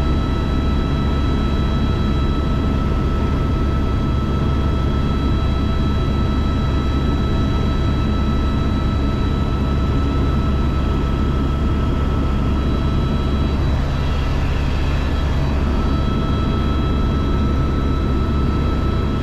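Helicopter running steadily: a heavy low drone from the rotor and engine with a steady high turbine whine over it.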